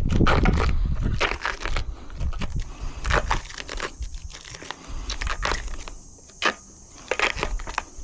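Packaging being torn and crumpled off a new gate post: irregular crinkling and ripping with scattered sharp crackles, over a low rumble in the first second or so.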